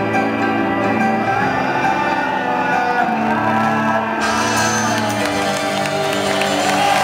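A live band's closing guitar chords ringing out in an arena, with crowd cheering and whooping breaking in about four seconds in as the song ends.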